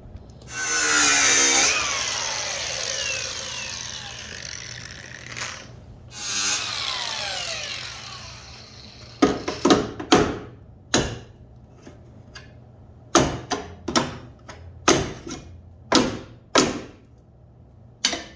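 A power tool runs in two loud bursts that wind down in pitch as they fade. Then come about a dozen sharp knocks, often in quick pairs.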